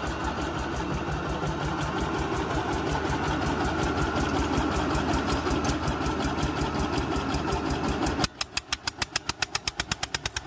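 Tractor engine running steadily. Near the end the sound changes abruptly to a sharp pulsing of about seven beats a second.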